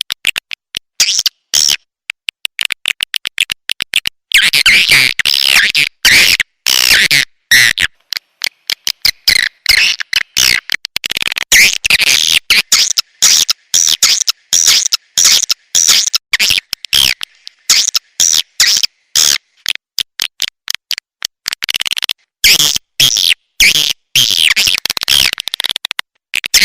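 Swiftlet call recording of the kind played to lure swiftlets into a bird house: rapid trains of dry clicks alternating with dense, buzzy chirping, cutting in and out in short bursts.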